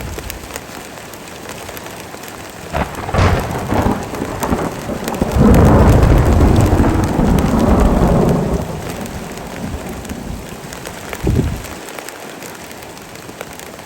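Heavy rain falling steadily, with thunder: a few sharp cracks about three seconds in, then a loud rolling rumble lasting about three seconds, and another short crack near the end.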